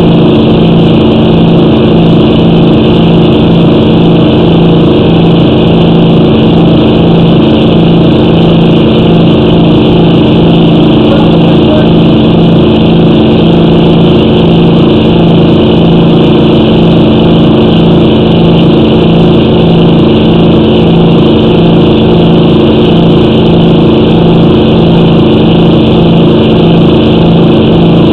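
A loud, steady, unchanging hum with a low pitched tone.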